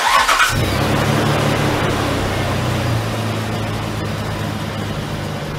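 Jeep Wrangler TJ engine starting, catching about half a second in, then idling steadily.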